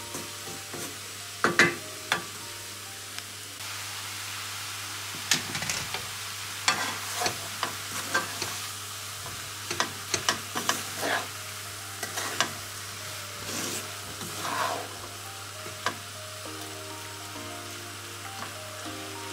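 Chicken and leeks sizzling in a nonstick frying pan as a wooden spatula stirs them, with irregular scrapes and knocks of the spatula against the pan over a steady frying hiss. The meat is still cooking through.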